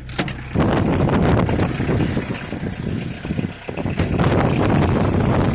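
Wind buffeting the microphone outdoors over a 1990 Peugeot 205 GLD's diesel engine running just after a cold start at about −1 °C. A sharp click or two come at the very start, and the wind noise eases briefly a little after three seconds in.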